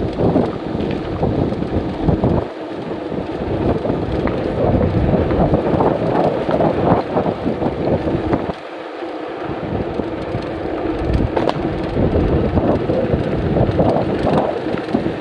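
Strong gusty wind buffeting the microphone of a camera on a moving bicycle: a dense, low rumble that eases off briefly about two and a half seconds in and again around eight and a half seconds.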